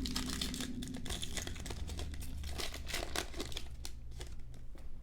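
Basketball trading card pack wrapper being torn open and crinkled by hand: a dense run of crackles that thins out near the end.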